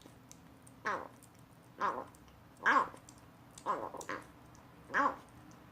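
Young kitten giving short mews about once a second, six in all, each rising and falling in pitch. These are the odd little calls it makes while eating weaning food for the first time.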